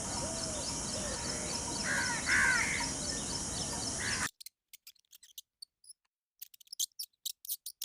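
Birds calling over steady hissy outdoor ambience, with two louder, harsh calls about two seconds in. The sound cuts off abruptly about four seconds in, leaving near silence with faint scattered clicks.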